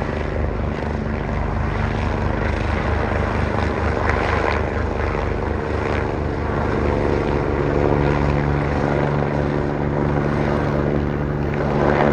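Eurocopter EC145 helicopter overhead: the rapid, even beat of its rotor blades over a steady engine hum, growing a little louder about seven seconds in.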